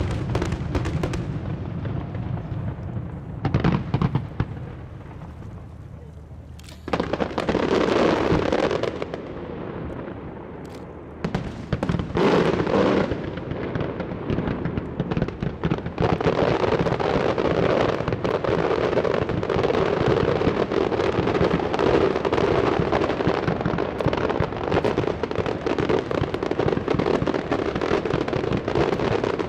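Aerial fireworks shells bursting with loud bangs, spaced a few seconds apart at first. A little past halfway they build into a continuous barrage of bangs and crackling.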